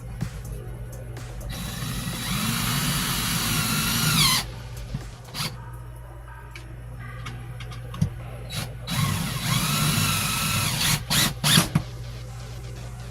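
Power drill driving screws to mount a cabin light fixture: two runs of several seconds each, the motor's pitch sagging and picking up again under load, then a few short blips near the end.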